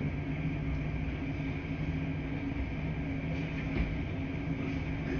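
Laundry machines running in a laundry room: a steady, even hum with a low rumble under it. A few faint clicks come in the second half.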